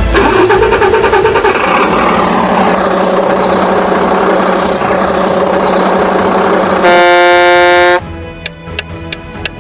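A truck air horn sounds once, loud and steady for about a second, near the end, over a steady vehicle running noise; then a run of light clicks.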